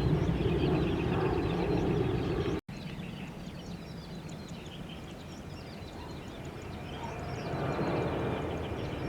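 Low rumble of jet aircraft engines that cuts off abruptly after about two and a half seconds. It gives way to quieter outdoor ambience with small birds chirping repeatedly, and a low rumble builds up again near the end.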